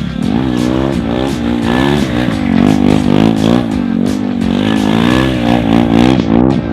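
KTM RC 390's single-cylinder engine revving up and down again and again while the bike is drifted, its pitch rising and falling about every two-thirds of a second.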